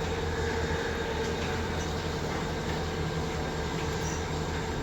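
Steady machine drone with a constant low hum and a held mid-pitched tone, running at an even level.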